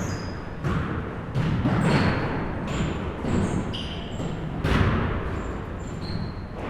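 Basketball bouncing in a gym, several separate thuds each with a short echo. Short high squeaks between them, typical of sneakers on the court.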